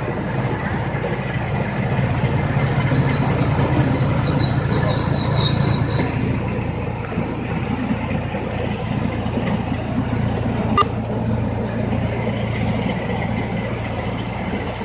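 A tractor-powered mini rice mill (paddy huller) running steadily: the tractor engine's drone under the milling machinery. A brief high chirping comes about four to six seconds in, and a single sharp click near the end.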